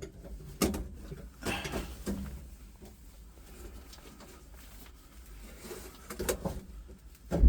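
Scattered knocks and scraping as a 5 mm vacuum pipe is handled and fed back through a grommet in the truck's bodywork, the loudest knock near the end.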